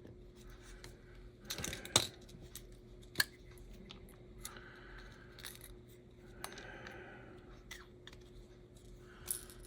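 Faint clicks and rustles of tiny HO slot-car motor parts and tools being handled on a workbench, with sharper ticks about two seconds and three seconds in.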